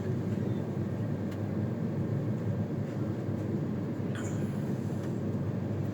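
Steady low rumble of an Indian Railways passenger train running, heard from on board the coach, with a few faint clicks and a brief scrape about four seconds in.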